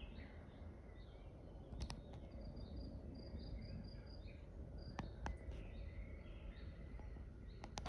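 Faint outdoor ambience: small birds chirping over a low rumble, with a few sharp clicks.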